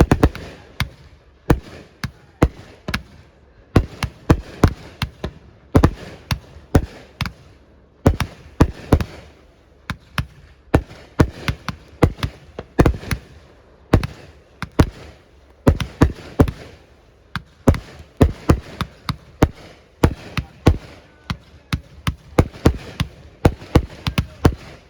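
Fireworks going off in a rapid, irregular barrage of sharp bangs, several a second, with no let-up.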